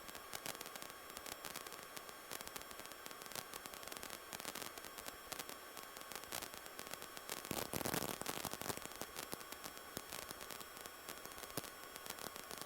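Faint static hiss on a cockpit intercom audio feed, with scattered crackling clicks and a brief swell of noise about eight seconds in; no voices or radio calls.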